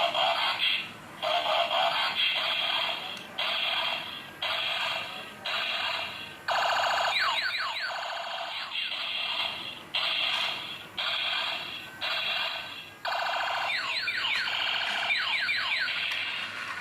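Electronic jingle and sound effects from a battery-powered toy's small speaker, coming in short blocks that start and stop about once a second, with sweeping warbling tones twice.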